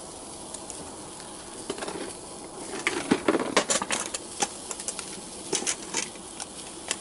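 Food sizzling in a very hot cast-iron skillet: a steady hiss with sharp pops and crackles, thickest around the middle.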